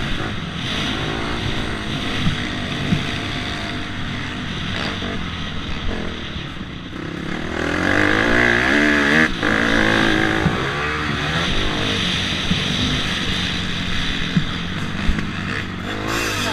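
Motocross dirt bike engine running and revving up and down, loudest about halfway through.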